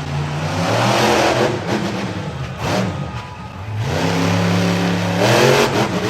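Monster truck engine revving hard in two surges, one about a second in and one near the end, its pitch climbing and dropping between them.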